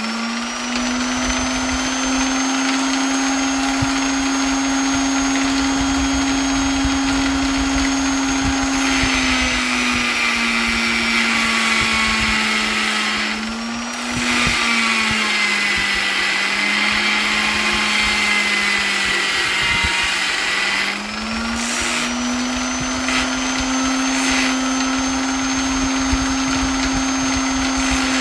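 Electric polisher motor running continuously with a steady hum and a high whine. Its pitch sags twice, briefly about halfway through, and climbs back up later on.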